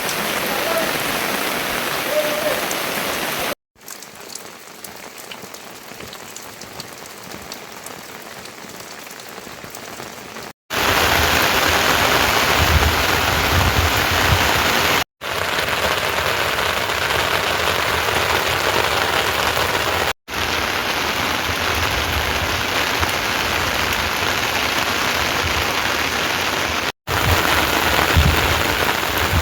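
Steady rain falling, an even hiss, heard across several clips that cut in and out suddenly; one stretch a few seconds in is noticeably quieter.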